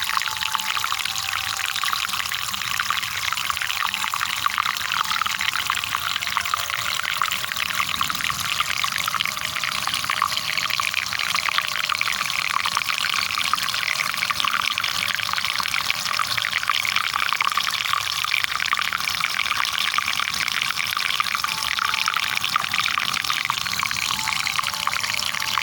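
Water pouring and splashing steadily, a dense continuous spatter with no pauses or changes.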